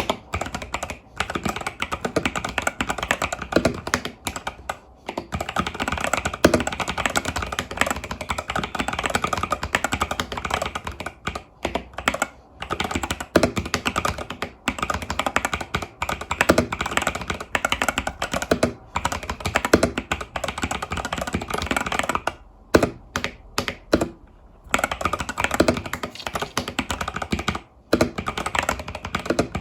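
Continuous fast typing on a mechanical keyboard, the Epomaker TH80 Pro with tactile Epomaker Budgerigar switches and stock keycaps: a steady stream of key clacks with a few short pauses.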